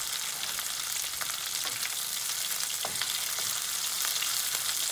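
Curry leaves, slit green chillies and coriander sizzling in hot oil with mustard seeds: a steady high hiss, the tadka frying lightly. A wooden spatula stirs them in a nonstick pan, with a few faint ticks and scrapes.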